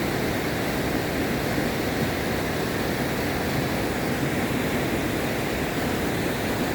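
Steady rushing of a flooded creek running high and fast.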